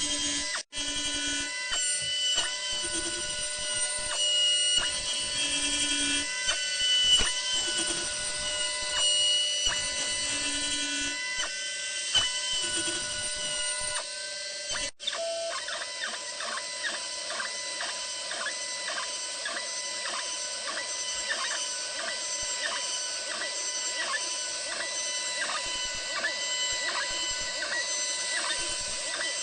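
DIY CNC machine with a 4th (rotary) axis running a test program: its stepper motors whine in steady tones that jump in pitch with each move. In the second half the pitch switches back and forth about twice a second as the machine makes short repeated passes.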